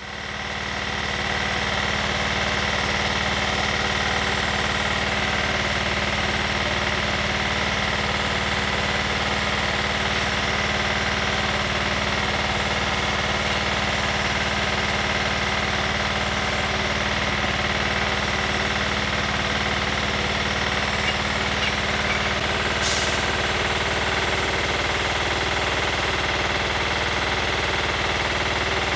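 A workshop machine's motor running steadily at constant speed, with a low hum and a steady high whine. There is a brief hiss about 23 seconds in.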